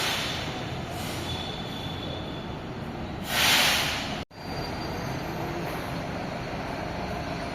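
Metro train running at a station with a steady rumble, and a loud hiss for about a second near the middle.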